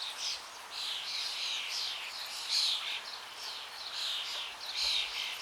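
Songbirds chirping: a continuous run of short, high chirps and twitters, some sliding up or down in pitch.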